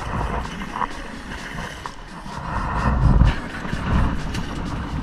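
Wind buffeting the microphone on a fishing boat at sea, with stronger low gusts about three and four seconds in.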